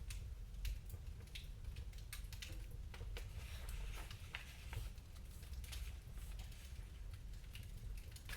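Wood fire in a fireplace crackling: irregular sharp pops and snaps over a low, steady rumble.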